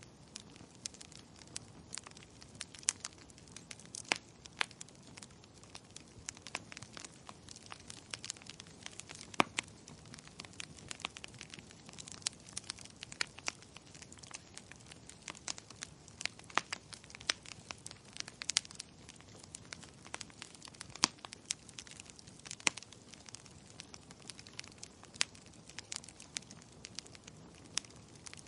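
Wood fire crackling: irregular sharp pops and snaps, a few louder than the rest, over a soft steady hiss of burning.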